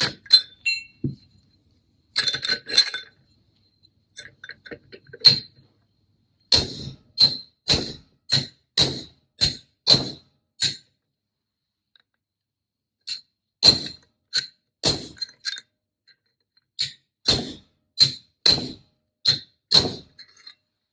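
Tapping on metal motorcycle steering parts: sharp, ringing knocks, a few scattered at first, then two steady runs of about eight to ten taps, under two a second, with a pause between. This is the work of spreading the Yamaha R7's triple tree apart with homemade aluminium jigs to fit it over the steering stem.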